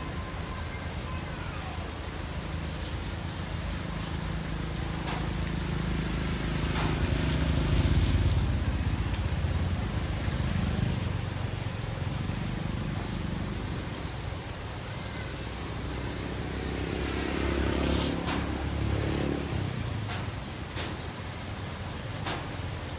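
Steady rain with two motor vehicles passing, each swelling and fading away: the first loudest about a third of the way in, the second about three-quarters of the way in.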